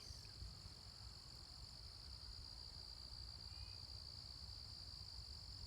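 Insect chorus, typical of crickets, as a steady, faint, high-pitched drone, with two faint short chirps a little past the middle.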